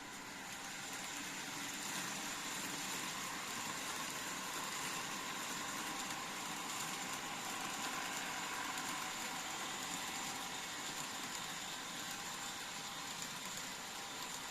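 TOMIX N-scale N700S 8000 series model train running along the track, a steady whir of its small motor and rolling wheels. It grows louder over the first couple of seconds, then eases slightly after about eleven seconds.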